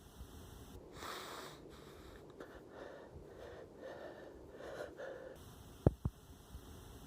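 Faint, breathy sounds of a person breathing heavily for a few seconds, then two sharp clicks in quick succession near the end.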